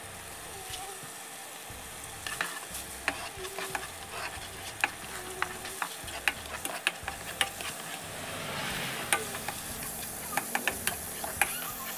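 Ginger strips frying in hot oil in a granite-coated nonstick deep fry pan, a steady sizzle under many sharp clicks and scrapes of a spatula stirring against the pan from about two seconds in. The sizzle grows louder for a moment about three quarters of the way through.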